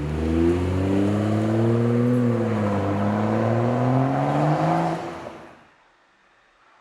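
Dirt bike engine running and revving, its pitch climbing, dipping and climbing again, then fading out about five and a half seconds in.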